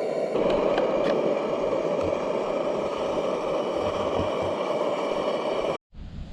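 Trangia multifuel camping stove burner running with a steady rushing sound, with a couple of light clicks about a second in; the sound cuts off suddenly near the end.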